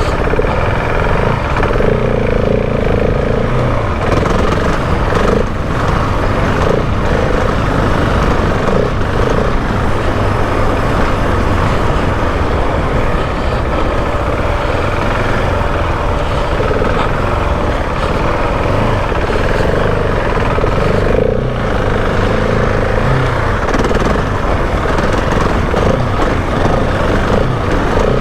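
Husqvarna 701 Enduro's single-cylinder engine running loudly and continuously while the bike is ridden around a motocross track.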